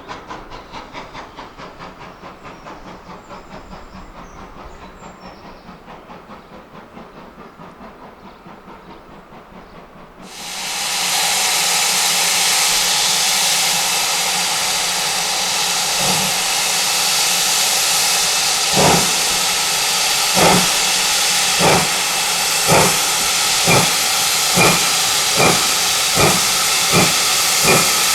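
A steam locomotive, GWR Manor class 4-6-0 No.7802 Bradley Manor, getting under way. A quieter fast rhythmic pulsing gives way about ten seconds in to a sudden loud hiss of steam. Strong exhaust beats then join the hiss and come faster and faster as the engine gathers speed.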